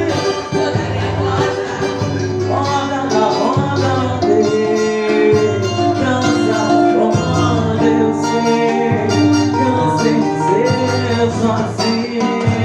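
A small band playing Latin-American style music: a pulsing bass line under sustained and gliding melody notes, with steady percussion strokes.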